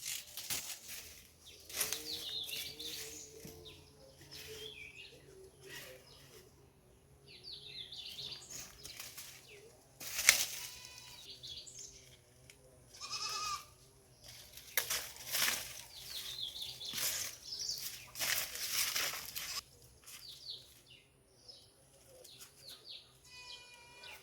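Farmyard animals: high chirping calls, several noisy bursts of wing flapping, and a goat bleating a couple of times.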